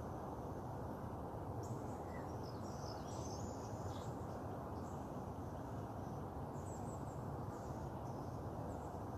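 Faint high bird calls and chirps, some short and some gliding, over a steady low background noise.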